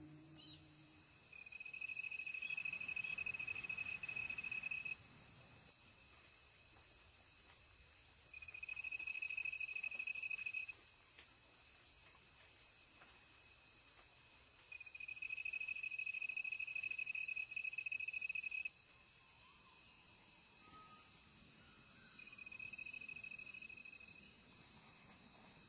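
Insects calling: four bouts of a steady, single-pitched trill, each lasting a few seconds with pauses between. Under them runs a continuous high-pitched insect chorus.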